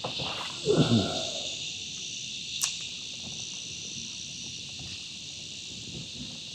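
Dense chorus of cicadas, a steady high-pitched buzz throughout. About a second in comes a brief, louder low sound that falls in pitch, and a sharp click follows at about two and a half seconds.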